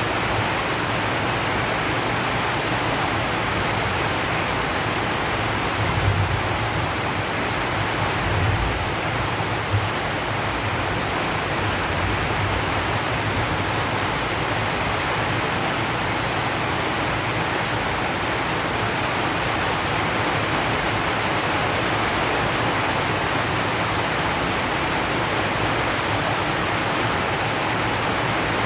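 Steady, dense rain drumming on a zinc roof, an even hiss with no let-up. A few brief low thumps stand out between about six and ten seconds in.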